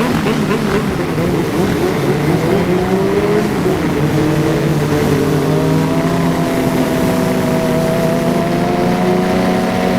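Motorcycle engine running under way: the revs waver and climb over the first few seconds, then hold steady.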